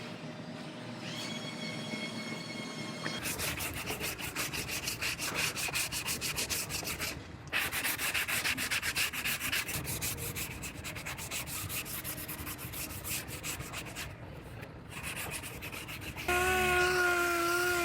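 Sanding on a car body panel: fast, even scratching strokes, with brief pauses twice. Near the end a steady pitched whine starts and is louder than the sanding.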